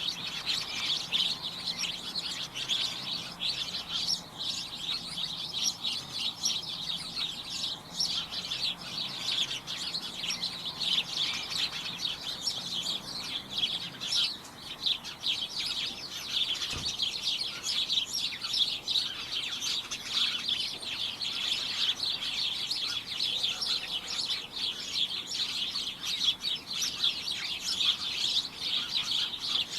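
A flock of small birds chirping and twittering continuously, many short overlapping high chirps in a busy chorus. A single brief low thump comes a little past halfway.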